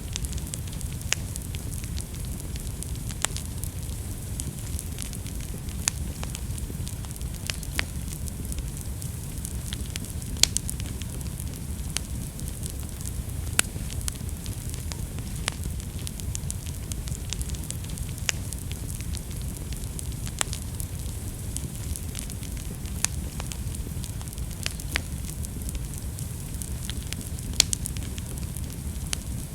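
Wood fire burning in a fireplace: a steady low rumble of flame with scattered sharp crackles and pops throughout, a few louder pops standing out.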